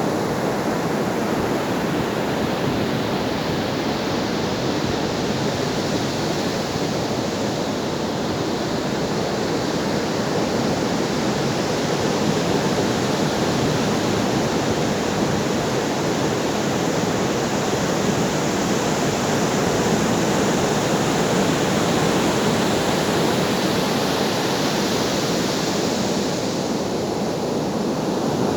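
Ocean surf washing on a shore: a continuous rush of water that swells and eases slowly, about twice.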